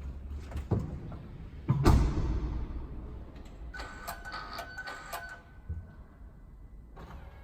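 A car door is shut with a heavy thud about two seconds in, after a softer knock. A couple of seconds of whirring and clicking with a thin steady tone follow from inside the car.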